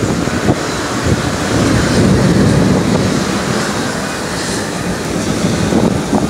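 Heavy thunderstorm rain pouring down steadily, a dense wash of noise.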